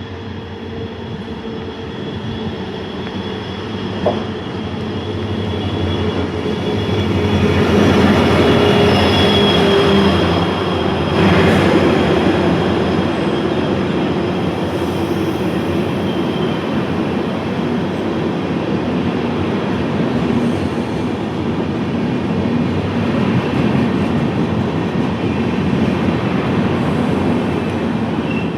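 A train passing close by on the track, its wheels running over the rails with some high squeal, growing louder over the first several seconds and then holding steady. There is a short sharp knock about four seconds in.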